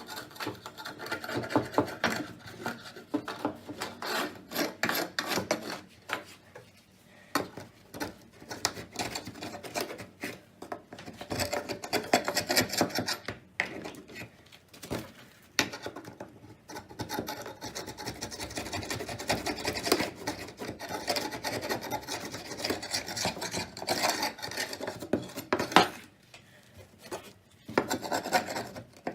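Rapid, irregular rasping strokes of something being scrubbed or scraped by hand, coming in runs with brief pauses about seven seconds in and again near the end.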